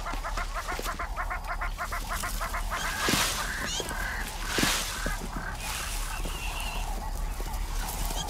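A bird's rapid chattering call of about ten notes a second, lasting under two seconds, followed by a few thin high chirps and short hissing bursts.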